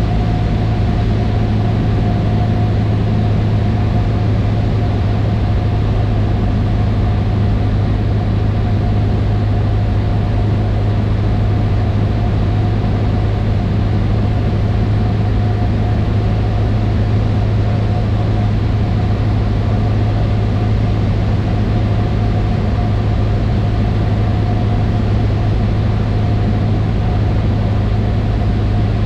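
Cessna 152's four-cylinder Lycoming engine and propeller running at a steady power, heard inside the cockpit as a loud, unchanging drone with a low hum and a steady higher tone.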